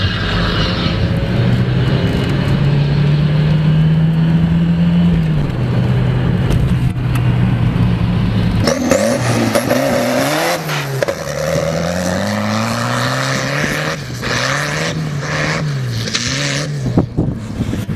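Tractor's turbocharged Volvo engine running at steady high revs, easing off about five seconds in, then revved up and down several times.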